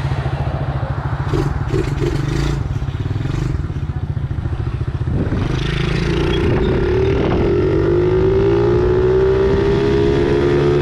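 Tao Tao 110cc four-stroke pit bike engine running, with some clattering in the first few seconds. About five seconds in the engine revs up, its pitch rising, then holds steady at the higher speed.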